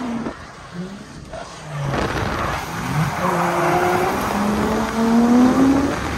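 Drift car's engine revving up and down with tyres squealing as it slides, building from about two seconds in and loudest near the end.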